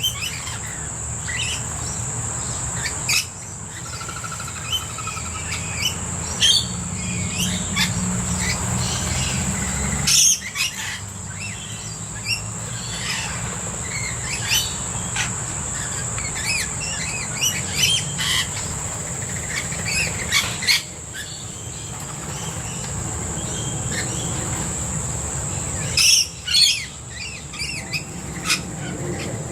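Many short bird chirps and calls from a mixed flock of rainbow lorikeets, blue-faced honeyeaters and noisy miners, with louder calls about ten seconds in and near the end. Under them runs a steady high-pitched insect drone.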